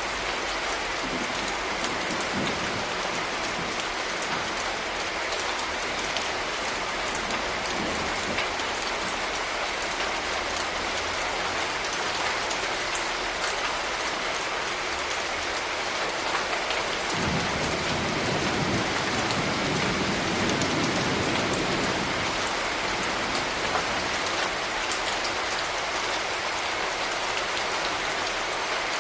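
Steady rain falling, with scattered drop ticks. A low rumble swells in a little past the middle and fades again a few seconds later.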